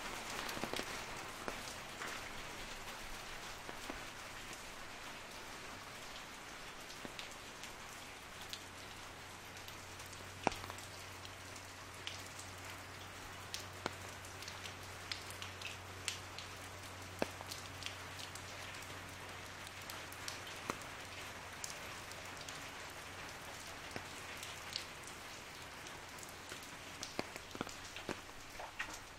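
Rain drumming on an umbrella overhead: a steady hiss of rain with many sharp, separate taps of drops hitting the canopy. A faint low hum runs through the middle.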